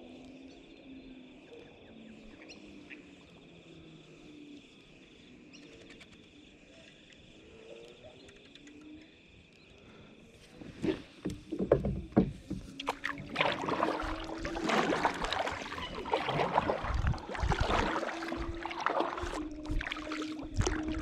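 Quiet lapping at first, then from about halfway through, irregular splashing and knocking of water against a fishing kayak, typical of paddling or of moving about in the boat.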